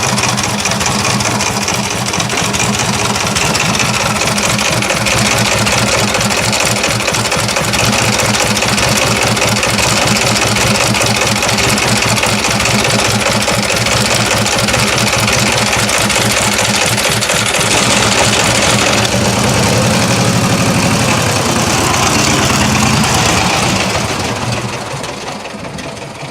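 1928 BSA 770 cc vee-twin motorcycle engine running with a rapid, uneven firing beat; the note shifts in the last several seconds and the sound falls away about 25 seconds in.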